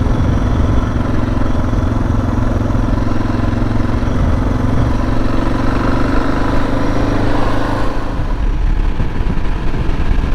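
Suzuki DR650's single-cylinder engine running steadily while riding. About eight seconds in, its steady note fades and the sound turns lower and rougher.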